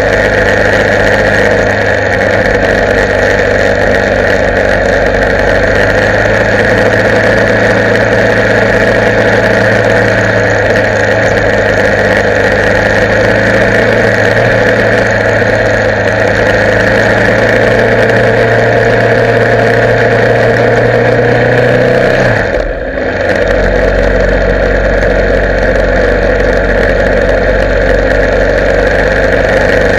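Motorcycle engine running steadily while riding, its note slowly rising, with a short drop in the sound about three quarters of the way through before it settles steady again.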